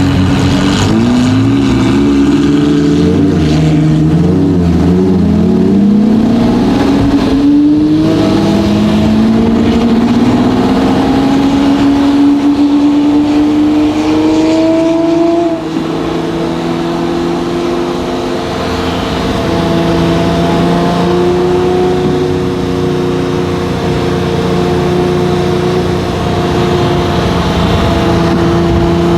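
Lamborghini Murcielago LP640's straight-piped 6.5-litre V12 pulling through the gears. The engine note climbs, drops sharply at a gear change about seven seconds in, climbs slowly again, drops at another shift about halfway through, then holds a nearly steady note.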